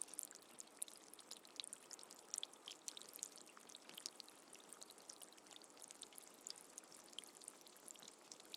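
Soft, steady rain: an even hiss of falling water with many separate drops ticking sharply on top.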